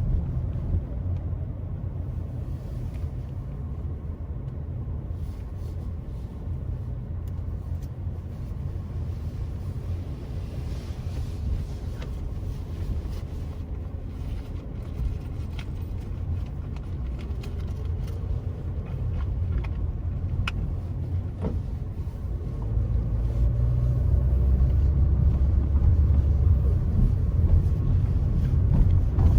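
Car driving along a road: a steady low rumble of tyres and engine that grows louder about three quarters of the way through, with a few faint clicks.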